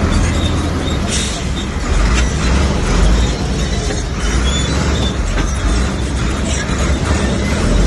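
Komatsu bulldozer's diesel engine running in a steady low rumble, with scattered clanks and rattles from the machine.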